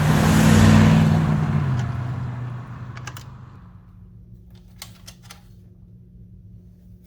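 Marbles rolling along a rain-gutter channel, a rumble that fades over about three seconds, then a few sharp clicks as marbles knock together or hit the track.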